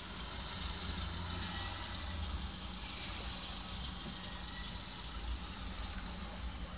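Car engines idling in stopped traffic, heard from inside a car: a steady low rumble with an even hiss over it.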